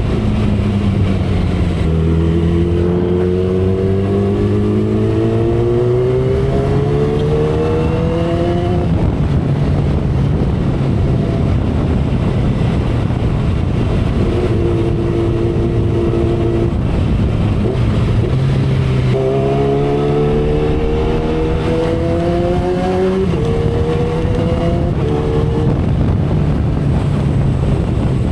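2012 Kawasaki Ninja ZX-10R's inline-four engine under way at speed, with wind rushing past. Its exhaust note climbs for several seconds, holds steady through the middle, then climbs again, breaking twice into quick upshifts near the end.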